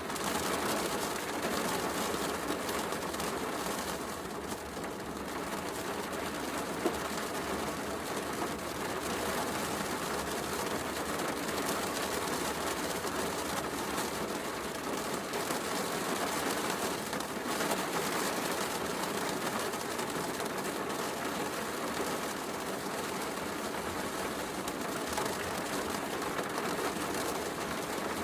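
Heavy rain falling steadily, mixed with the crackle of a wood fire, with one sharp pop about seven seconds in.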